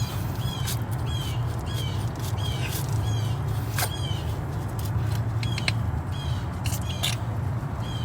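An animal's short high call, repeated about twice a second, over a steady low hum.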